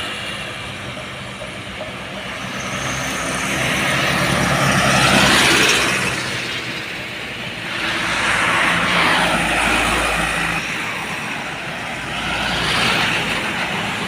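Heavy trucks driving past on a road one after another, the sound swelling and fading as each goes by, about three passes in all.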